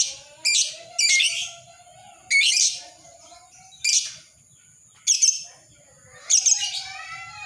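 Lovebird calling in its 'ngekek' style: a series of shrill, sharp chirps, each short, coming every half second to a second, with a short pause about two-thirds of the way through and a quicker run of calls near the end.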